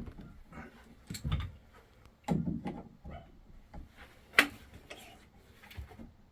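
Irregular knocks and metallic clicks of a Moen shower cartridge and its retaining pin being worked into the valve body, with one sharp click about four seconds in.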